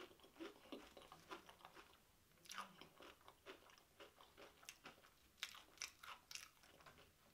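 A person chewing deep-fried, panko-breaded seafood close to the microphone: faint, crisp crunches of the breading between the teeth, coming in clusters about two and a half seconds in and again near the end.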